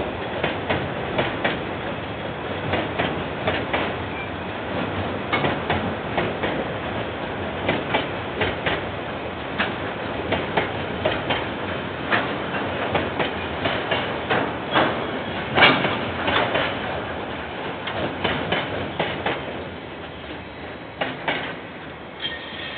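A KiwiRail train's wagons rolling past, heard through a security camera's microphone, with the wheels clacking irregularly over the rail joints several times a second. The rumble and clacking fade over the last few seconds as the train goes by.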